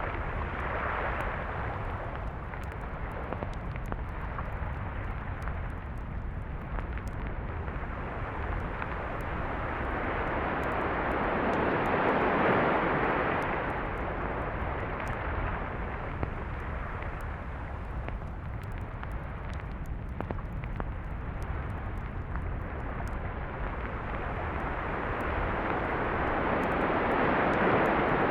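Sea waves breaking and washing up a beach over a steady low rumble of surf, with one wave swelling louder about twelve seconds in and another near the end.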